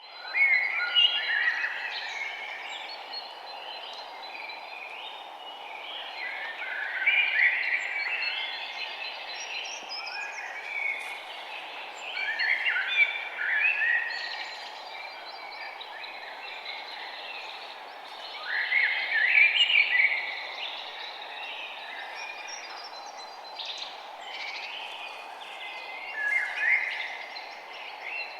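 Birds singing in busy chirping phrases that come back every five or six seconds, over a steady background hiss of outdoor noise.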